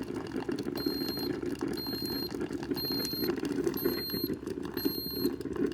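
Ninja coffee maker beeping five times, high-pitched, about once a second, over the steady low hum of the machine running.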